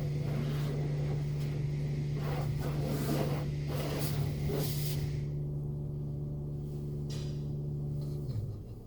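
Automatic car wash running: water spraying against the car in uneven surges, which stop about five seconds in, over a steady machine hum that drops in pitch and cuts out near the end.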